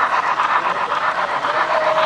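Model train running on a layout, a steady fast rhythmic clatter, with a short steady tone near the end.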